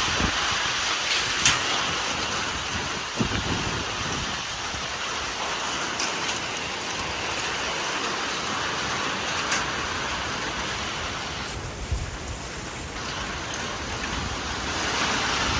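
Heavy rain and strong thunderstorm winds, a steady dense rush of noise, with a few scattered sharp knocks.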